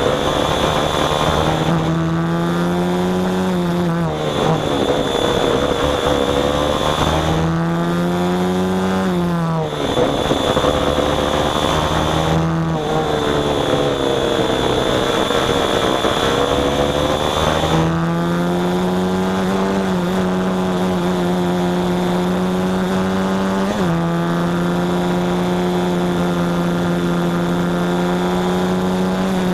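Small engine running under varying throttle: its revs repeatedly drop and pick up again, then hold steady for the last ten seconds or so, with a brief blip in the middle of that stretch.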